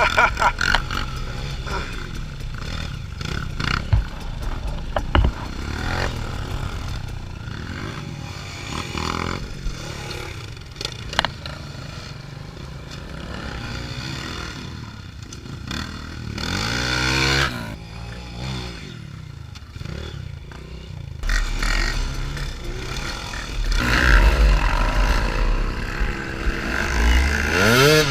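Off-road motorcycle engines running and revving in bursts, with scattered knocks and clatter; the engine pitch rises again near the end.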